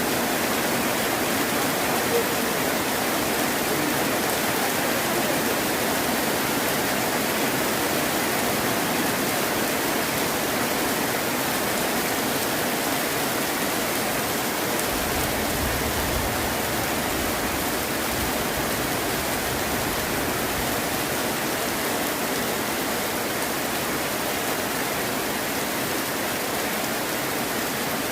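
Heavy rain falling in a steady, dense hiss, with a brief low rumble about halfway through, likely distant thunder.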